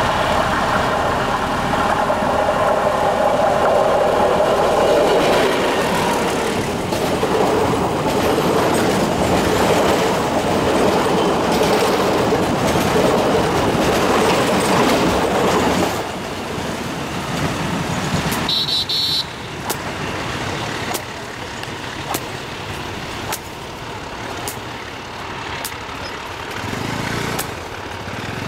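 Diesel-hauled passenger train passing close by: the locomotive engine and wheels on the rails are loud, then the level drops suddenly about sixteen seconds in as the train moves away, leaving a quieter rumble with sharp clicks of wheels over the rail joints.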